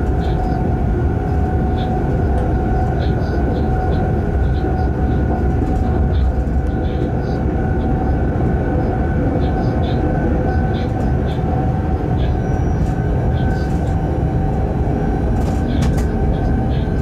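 Freight train running at speed on the rails, heard from the locomotive cab: a steady low rumble with a faint, even whine, and small faint ticks now and then.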